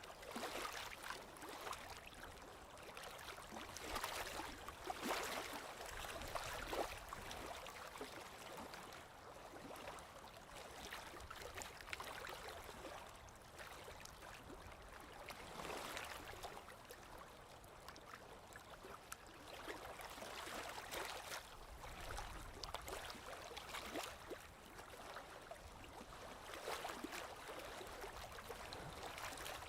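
Small waves lapping against a lake shore in soft, irregular splashes.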